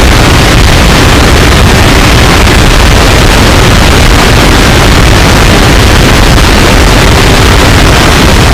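Harsh noise music: a loud, unbroken wall of distorted noise across the whole range, heaviest in the deep bass, with no pauses or changes in level.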